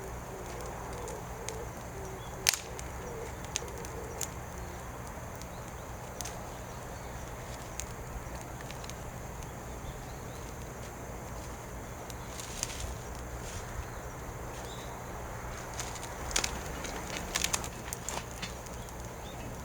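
Wood fire crackling, with occasional sharp pops and a quick cluster of them near the end. A dove coos in the background during the first few seconds.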